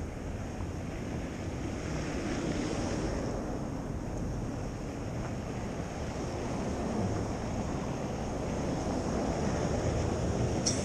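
Steady rushing city street noise: traffic rumbling past, with wind buffeting the microphone.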